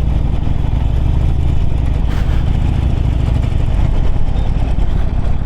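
Harley-Davidson Forty-Eight's V-twin engine running at a steady cruise on the move, a deep continuous engine note under road and wind noise.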